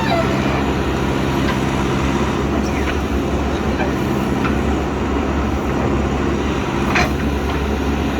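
JCB backhoe loader's diesel engine running steadily, with one sharp clank about seven seconds in.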